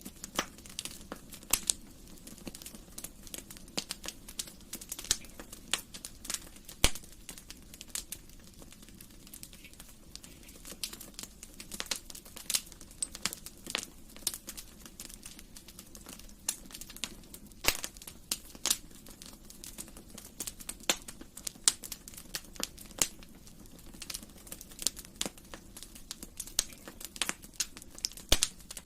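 Wood fire crackling, with many sharp irregular pops and snaps over a low steady hiss of the burning fire.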